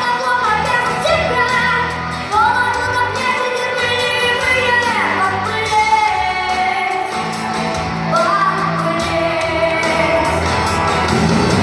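Female voice singing a Russian pop song with long held notes over a backing track.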